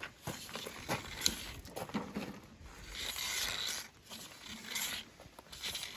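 Clicks, knocks and scraping from hand tools and plastic parts being handled as the recoil starter cover is taken off a Honda GCV mower engine. There are several sharp clicks in the first two seconds, then two longer stretches of scraping about three and five seconds in.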